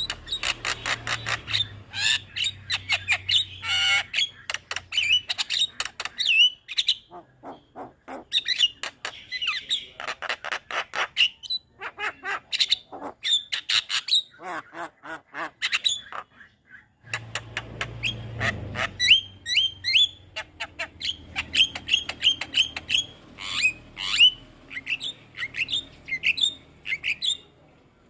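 Javan myna (jalak kebo) singing in long runs of rapid, harsh chattering notes and sharp whistles. The song breaks off briefly a little past halfway.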